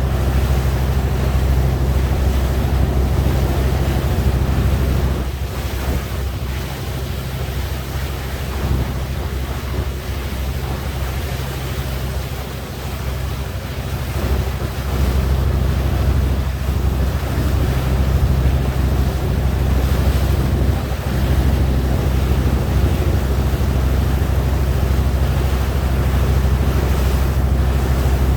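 A tugboat's engine running with a steady low drone, with wind buffeting the microphone. The drone eases off for several seconds in the middle, then comes back up.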